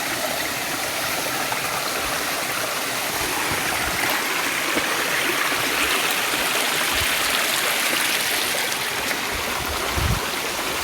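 Steady rush of river water running and cascading over rocks, a constant even noise with no break.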